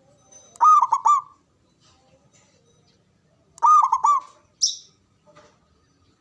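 Zebra dove cooing: two short phrases of three or four quick notes each, about three seconds apart, followed by a brief high hiss.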